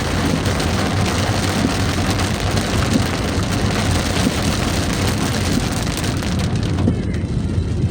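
Heavy rain pouring down, an even hiss with a low vehicle rumble underneath; the rain noise thins out near the end.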